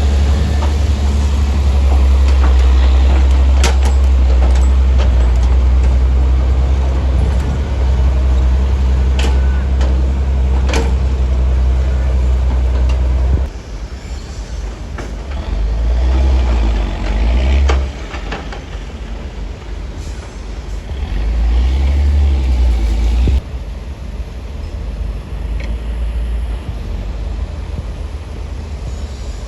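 Heavy diesel earthmoving machinery running with a loud, deep engine rumble and a few sharp knocks in the first half. The rumble drops suddenly about halfway through, swells back twice, then drops again near the end.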